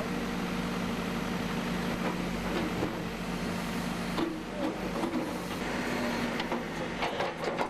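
Backhoe's diesel engine running steadily, with scattered knocks and clanks in the second half.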